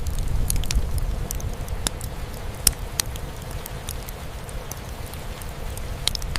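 Wood fire crackling, with scattered sharp pops (the loudest about two and a half seconds in) over a steady low rumble and the hush of rain.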